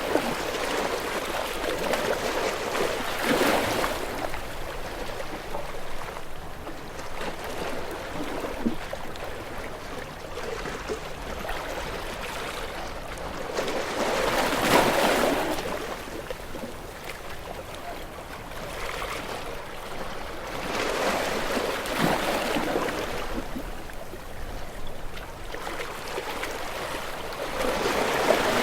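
Ocean waves breaking and washing up on shore, the surf swelling and fading every several seconds, loudest about halfway through.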